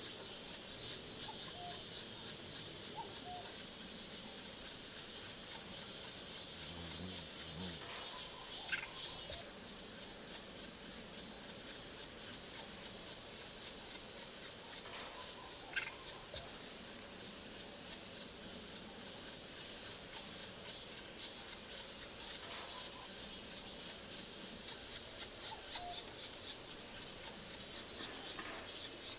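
Steady pulsing chirring of insects in a forest, with two sharp single taps about seven seconds apart.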